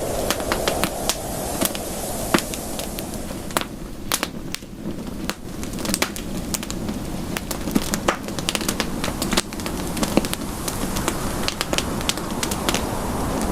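Campfire crackling: irregular sharp pops and snaps, many in quick succession, over a steady low rush.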